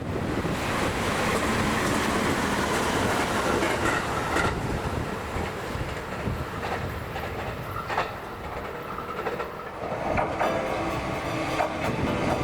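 A Toyama Chiho Railway electric train running on the line, with wheel clacks over the rail joints; a whining tone comes in near the end.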